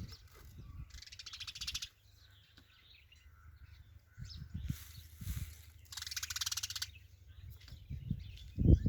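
Sparrow giving harsh, rapid chattering calls in three short bursts: about a second in, around five seconds, and around six seconds.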